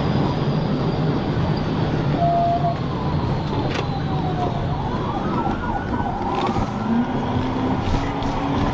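Police siren wailing, its pitch falling and then sweeping up and down for several seconds, over steady road and engine rumble from a fast-moving car.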